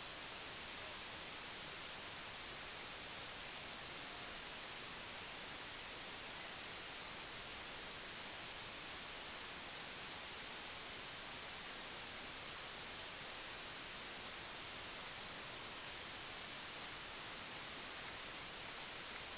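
Steady static hiss, even and unchanging, with no other sound standing out.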